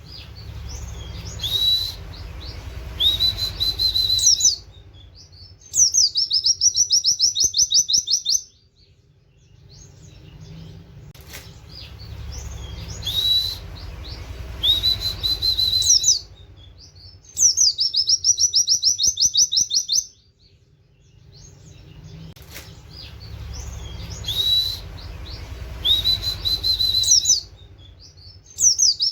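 White-eye (pleci) singing a repeated phrase: a few rising whistled 'wit' notes, then a fast, rapid chattering trill of high notes lasting a couple of seconds. The phrase recurs almost identically about every eleven seconds, over a low steady rumble.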